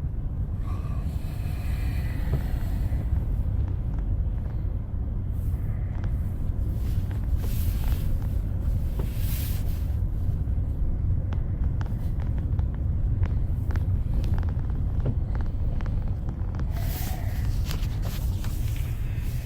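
Steady low road and engine rumble inside a moving vehicle on a snowy road, with scattered light ticks and a few brief swishes.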